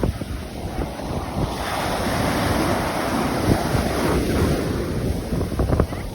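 Ocean surf breaking on the beach, a steady wash that swells and eases, with wind buffeting the microphone and a few short crackles near the end.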